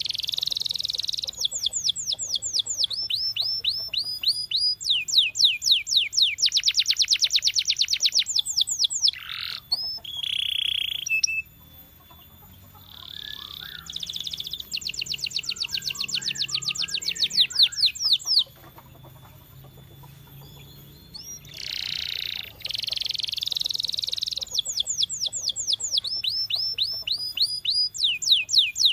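Domestic canary singing long phrases of rapid trills, each a fast run of repeated sweeping notes, with the phrase pattern changing every second or two. The song breaks off twice, the second time for about three seconds.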